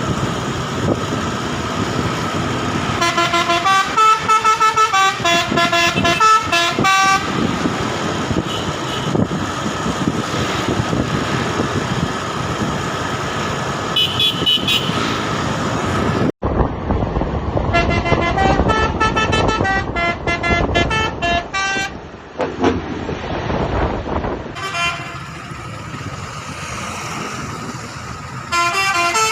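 Truck running with a multi-note musical horn played in quick stepping runs of notes, three times, over steady engine and road noise.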